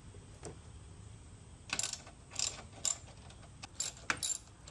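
Hand tools clicking and clinking on metal in a handful of short, scattered bursts while the mounting screws of a mower's ignition solenoid are undone.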